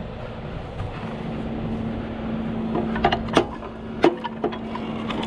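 Heavy wrecker's engine running with a steady hum, and a few sharp metallic clanks from about three seconds in as winch cable and rigging are handled.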